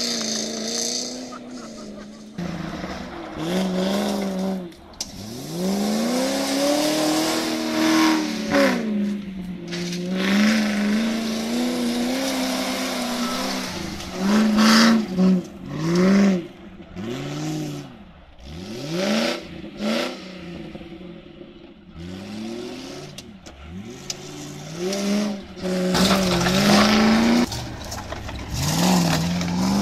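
Land Rover 4x4 engines revving hard and easing off again and again as the vehicles accelerate, slow and turn on a muddy course. The engine note climbs and drops over and over, with a run of quick rises and falls partway through and the loudest revving near the middle and near the end.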